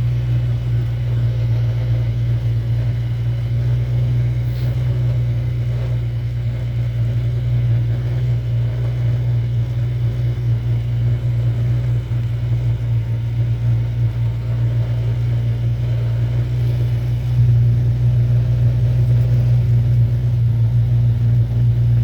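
A motor vehicle's engine running steadily as a low, unbroken drone, a little louder in the last few seconds.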